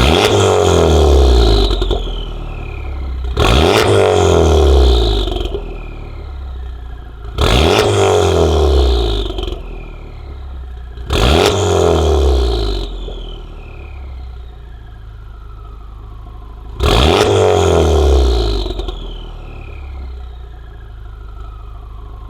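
Honda Civic Type R's turbocharged 2.0-litre four-cylinder revved five times in sharp blips from idle, each climbing quickly and falling back over a couple of seconds. It is breathing through a catless downpipe and a Remus valved cat-back exhaust with the valves half closed.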